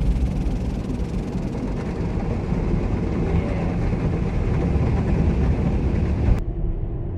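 Automatic car wash machinery working over the car, heard from inside the cabin: a steady heavy rumble with a hiss. The hiss cuts off suddenly about six seconds in.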